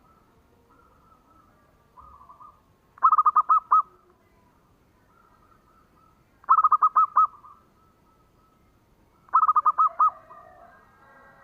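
Zebra dove (perkutut) singing: three loud cooing phrases, each a rapid run of about six short notes, roughly three seconds apart, with fainter calls of other birds in between.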